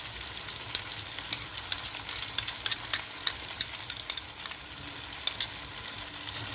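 Spiced chicken pieces frying in oil in a pan: a steady sizzle broken by frequent sharp crackles and pops.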